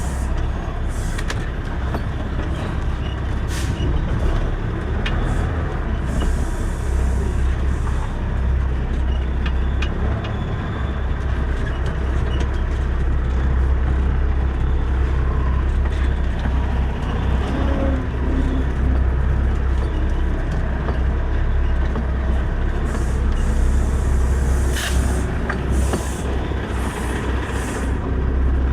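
Semi truck's diesel engine running at low speed while backing into a parking space, a steady low rumble. Several short hisses of air from the truck's air system break in over it, the loudest near the end.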